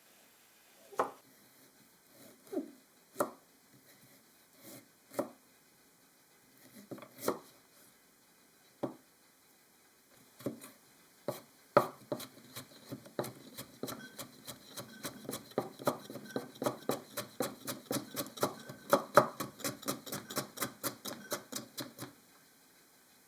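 A kitchen knife chopping on a cutting board: a few separate cuts, then fast, steady chopping at about four strokes a second for roughly ten seconds before it stops.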